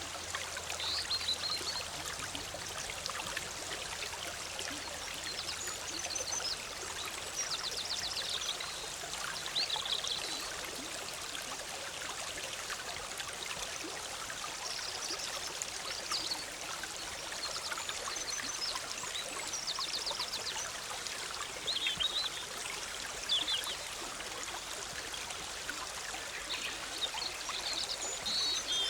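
Forest stream bubbling and rushing steadily, with songbirds calling over it: short high chirps and quick trills every few seconds.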